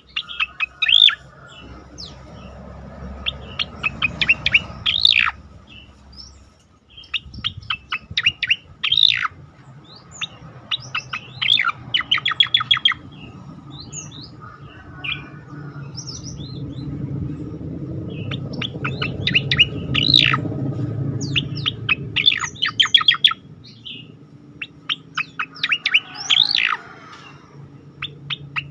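Cicak oreng songbird singing its 'tembakan' (shooting) song: bursts of rapid, sharp chirps and whistled notes, separated by short pauses. A low background rumble swells in the middle.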